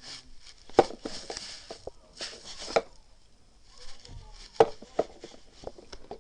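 A toy skateboard clattering on a hard surface: a string of sharp knocks and clacks, with short rolling rushes between them.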